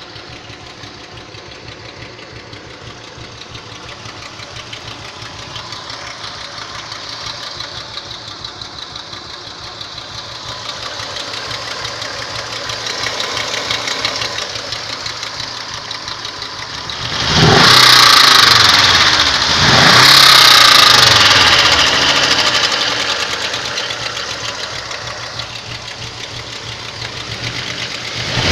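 Volkswagen 2.3 VR5 150 hp five-cylinder engine idling, blipped twice to higher revs about two-thirds of the way through and revving again at the very end. The owner finds the sound it makes strange and suspects something is wrong.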